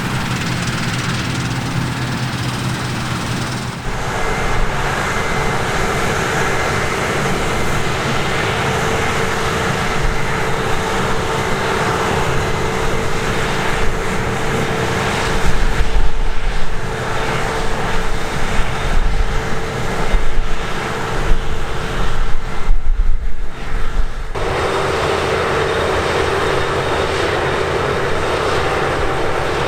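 Harvest machinery engines running steadily, with a steady whine over the engine noise. The sound changes abruptly about four seconds in and again near the end. Irregular loud low bursts come and go in the middle.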